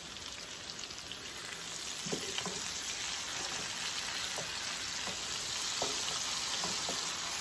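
Blackened salmon and shrimp sizzling steadily in hot oil in a pan, with a spoon basting the fish and now and then ticking against the pan.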